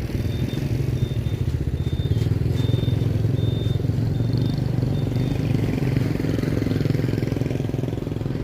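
A motor vehicle engine running steadily with a low, rapidly pulsing rumble, and a faint high-pitched tone sounding in short repeated pips over the first few seconds.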